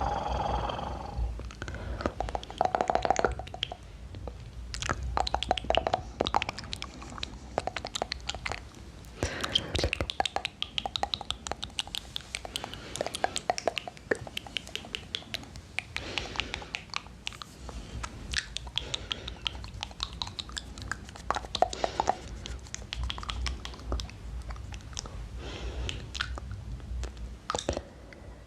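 Close-miked ASMR mouth sounds: dense runs of wet clicks and smacks from the lips and tongue, in quick irregular bursts.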